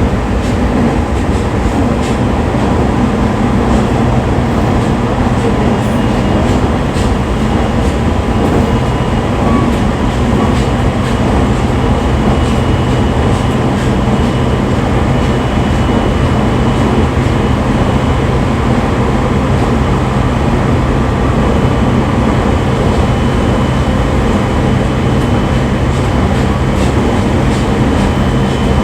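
Jōban Line electric train running between stations, heard from inside the carriage: a steady loud rumble with a low hum and a faint high-pitched whine that comes and goes.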